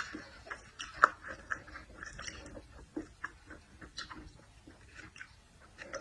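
A person chewing seafood close to the microphone: a rapid string of short mouth smacks and clicks, the loudest about a second in, fewer near the end.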